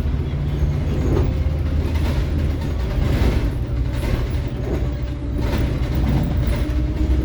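Scania K360IB city bus on the move, heard from inside the cabin: a steady low engine drone with road noise and several short knocks and rattles from the body.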